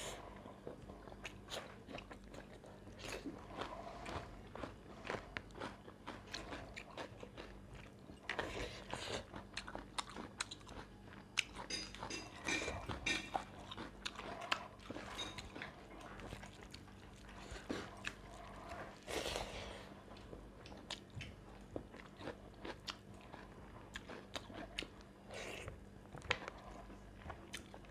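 Close-up eating sounds: chewing and crunchy bites, with many small scattered clicks and smacks throughout.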